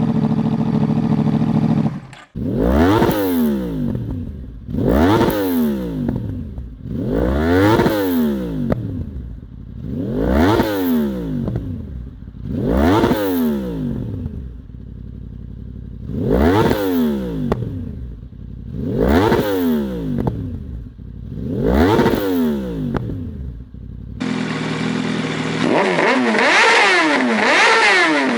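Yamaha R1 inline-four sport bike engine. It first holds a steady note; then, after a sudden cut about two seconds in, it is revved up and let fall back about nine times, one rev every two and a half seconds or so. Near the end a different recording takes over, with the engine running and its pitch climbing under acceleration.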